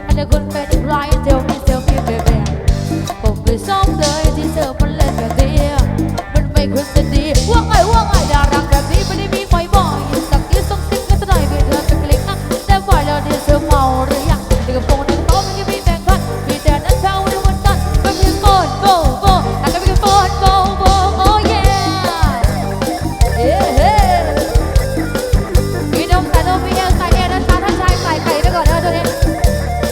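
Live band music with a steady drum beat and bass line; a gliding melodic lead comes in about eight seconds in.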